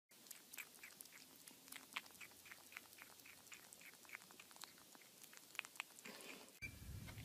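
A kitten gnawing on the rim of an orange plastic lid, its teeth making faint, quick clicks on the plastic at about three to four a second.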